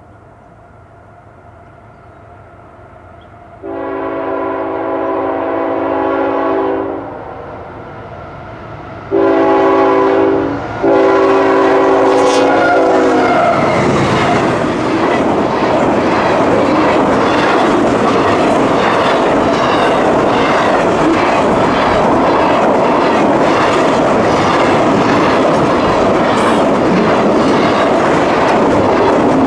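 CSX freight locomotive sounding its air horn for a grade crossing in three blasts, the last one dropping in pitch as the engine passes. A double-stack container train then rushes by with loud, rhythmic wheel clatter.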